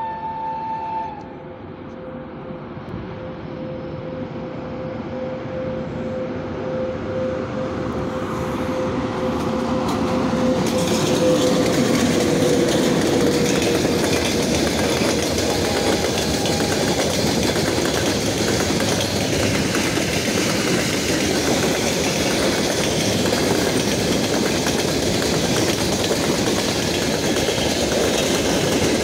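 VL80k twin-section electric freight locomotive giving a short horn blast, then coming closer with a steady tone that drops slightly in pitch as it passes about twelve seconds in. After that the wagons of a long freight train roll by with a steady rumble and clickety-clack of wheels over rail joints.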